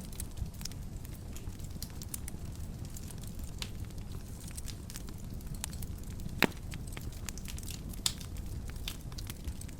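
Wood fire in a fireplace crackling, with a steady low rumble of the flames and scattered sharp pops and snaps; one louder pop comes about six and a half seconds in.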